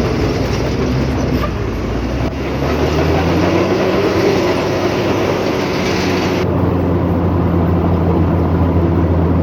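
Heavy diesel engine of earthmoving machinery running steadily and loud, its note shifting about two seconds in.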